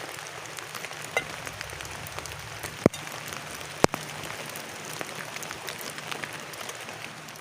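Rain falling steadily on a plastic tarp shelter, with many scattered drop taps over the hiss. Two much louder, sharp taps land about three and four seconds in.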